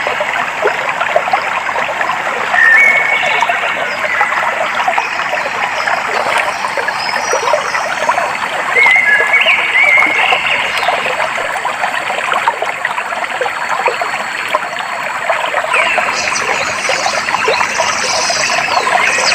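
Water trickling and splashing steadily in a small stream. Short bird chirps come in a few seconds in and again around the middle, with higher chirps near the end.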